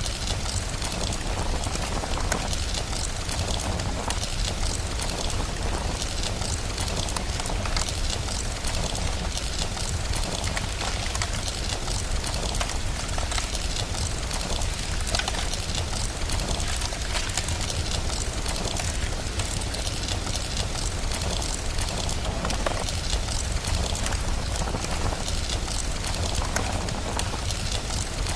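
Steady rain hiss with the crackle of a wood fire running through it, over a constant low rumble.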